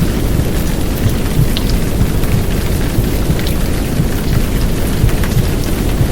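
Heavy downpour rain layered over a dense, low rumbling womb sound, a steady mix with no breaks.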